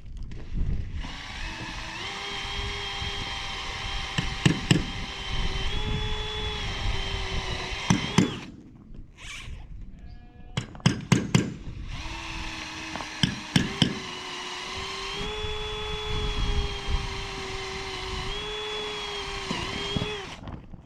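Power drill boring through stacked metal roofing sheets to predrill screw holes: two long runs of a steady motor whine that dips and steps in pitch as the bit loads up, with sharp metallic knocks between the runs.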